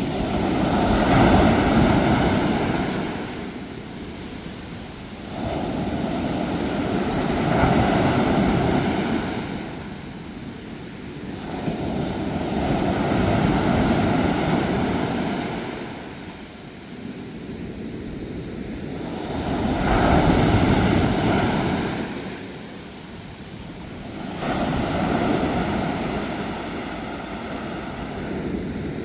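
Ocean waves washing onto a shore, each rushing in and ebbing away, five waves about five to six seconds apart.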